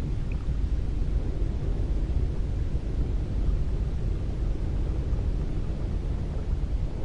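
Cold wind blowing steadily, a low rush of air that is strongest in the deep bass.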